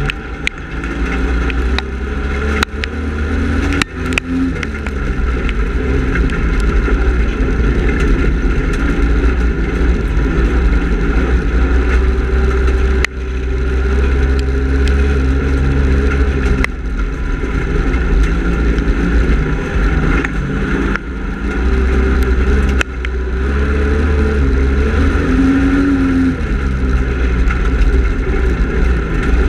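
Speedway race car engine running hard, its pitch rising and falling over and over as it is revved, with a few sharp knocks.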